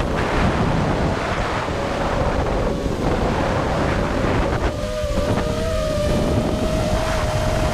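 FPV racing-drone motors whining at a wavering pitch as the throttle changes, under heavy wind buffeting on the microphone.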